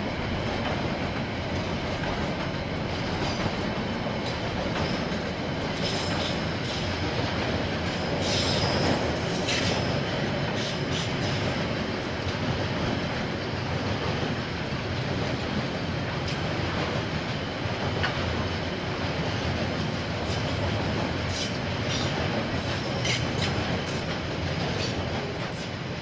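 KiwiRail train rolling past with a steady rumble of wheels on track and thin, high wheel squeal at times.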